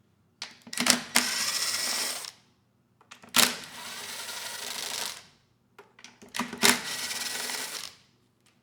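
Power driver run in three bursts of one to two seconds each, each starting with a few clicks, backing out the bolts that hold the cover over the Kohler engine's flywheel.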